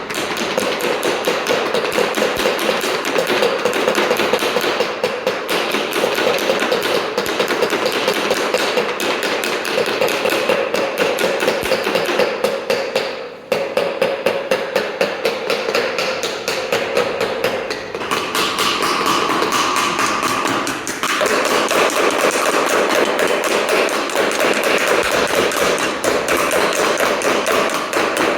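Rapid, continuous knocking, several knocks a second, with a short break about halfway through.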